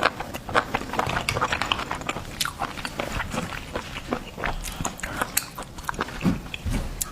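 Close-up eating sounds: a person biting and chewing seafood, with a steady run of quick wet clicks and crackles.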